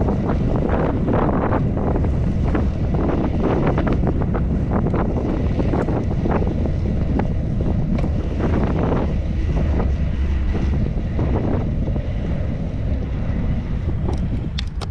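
Wind buffeting the microphone of a camera on a moving bicycle: a loud, gusty low rumble that eases slightly near the end.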